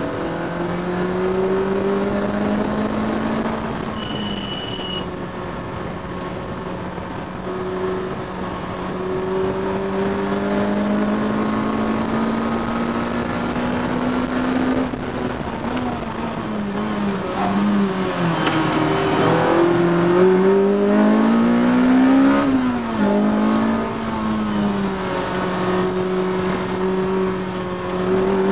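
Honda VTEC-engined Lotus Elise S1 heard from inside the cockpit at speed on a race circuit. The engine holds a steady pitch for about fifteen seconds, then falls and climbs again several times as the car slows and accelerates through corners.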